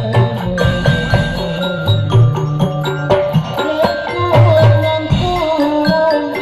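Hadrah ensemble music: quick, dense hand-drum strokes under a sustained melody line.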